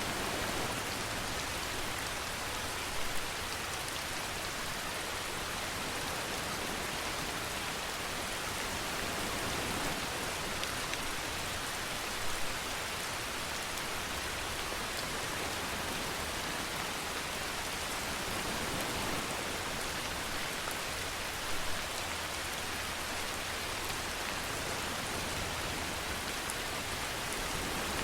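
Steady rainfall, an even dense patter of rain on a surface, with a few brief louder drops about three, twelve and twenty-one seconds in.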